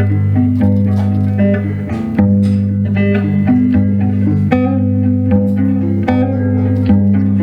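Instrumental song introduction played live: plucked guitar notes over a steady, sustained bass line.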